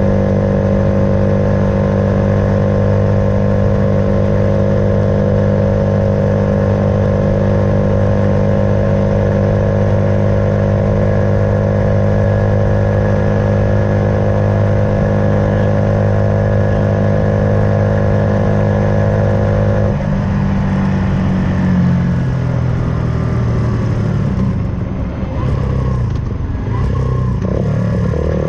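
Suzuki Van Van 125's single-cylinder engine with an aftermarket full exhaust, cruising at a steady speed and engine note, then about twenty seconds in the note drops and wavers as the throttle is eased and worked.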